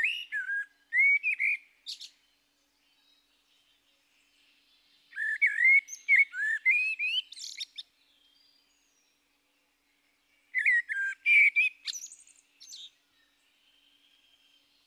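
A songbird singing three short phrases of quick chirps and whistled notes, rising and falling, with pauses of a few seconds between phrases.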